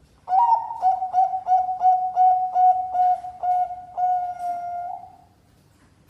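Zebra dove (Bangkok-type perkutut) singing: a quick series of about a dozen short cooing notes, then a longer drawn-out final note, lasting about five seconds.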